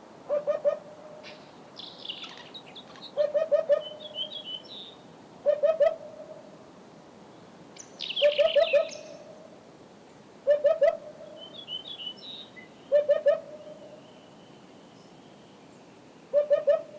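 Field recording of a hoopoe singing its short phrases of quick low notes, seven times about every two and a half seconds, with red-billed choughs of the Central Asian form calling loudly among them.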